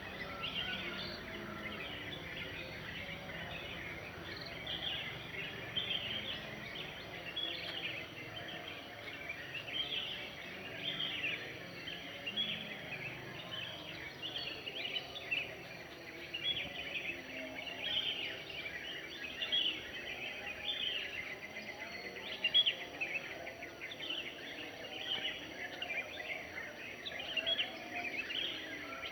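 Many small birds chirping and singing at once in a dawn chorus: dense, overlapping short high chirps without a break, over a soft background hiss.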